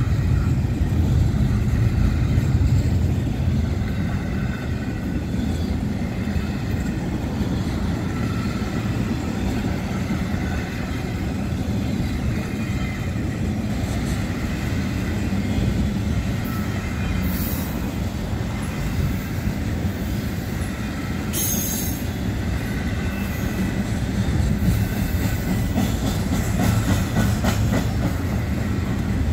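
Intermodal freight cars, double-stack well cars and spine cars loaded with containers, rolling past at close range: a steady rumble of steel wheels on rail. Faint high wheel squeal comes and goes, with two brief sharp high-pitched bursts in the second half.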